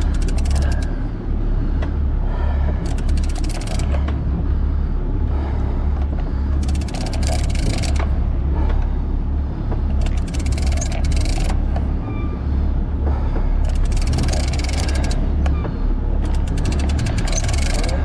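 A sport-fishing boat's engine rumbles steadily throughout, with repeated short bursts of hiss every second or two.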